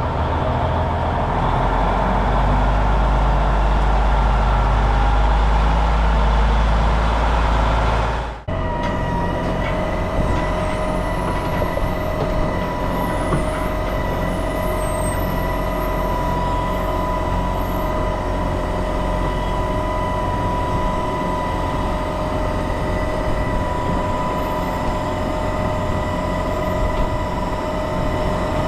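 Heavy diesel machinery running. A deep engine drone plays for about eight seconds, then after a brief break a steadier run follows with a high, even whine.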